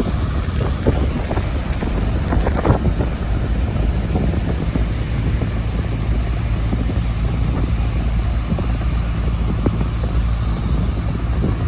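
Wind buffeting the microphone with a steady low rumble, over the continuous rush of heavy surf from a typhoon swell.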